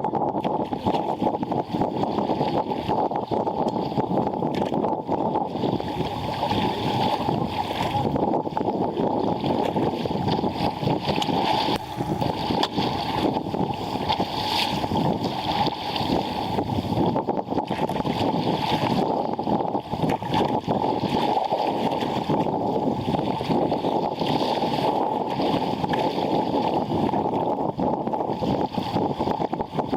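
Water rushing and splashing along a sailing sea kayak's hull as it runs fast through chop, a steady wash with repeated surges as waves pass.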